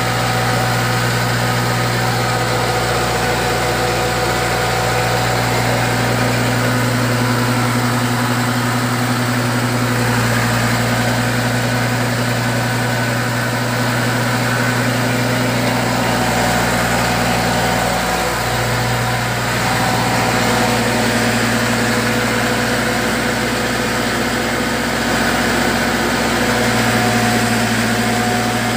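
Engine-driven fish feed pellet machine running steadily, with a constant engine drone. About two-thirds of the way through, the engine note dips briefly and then recovers, as the load changes.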